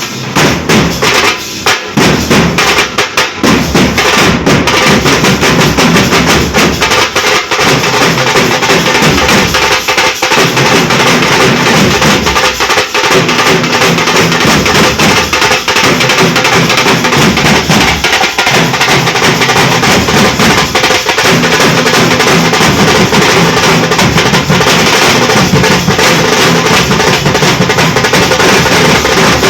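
Nashik dhol troupe drumming: big barrel drums beaten loud and fast. A few separate strokes in the first few seconds give way to a dense, continuous rhythm.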